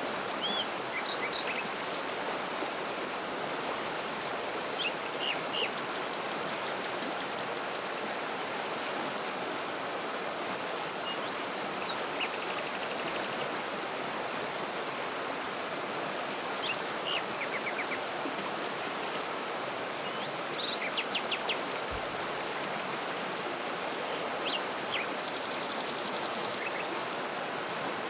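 Steady rush of a waterfall, with small birds chirping and giving short rapid trills over it every few seconds.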